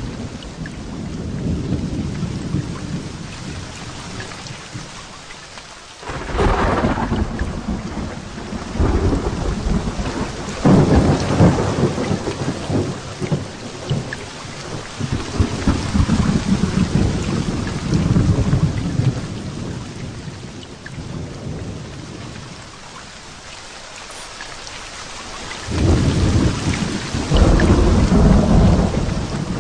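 Heavy rain falling steadily through a thunderstorm, with rolling thunder breaking in sharply several times, about six, ten and twenty-six seconds in, and rumbling away over a few seconds each time.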